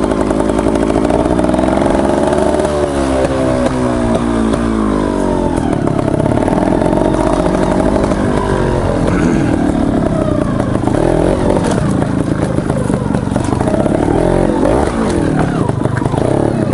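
Beta Rev 3 trials motorcycle engine running and being revved, its pitch rising and falling several times, with some clatter.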